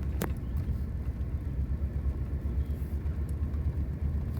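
Low, steady rumble of a vehicle travelling slowly along a grass-covered dirt road, with one sharp click just after the start.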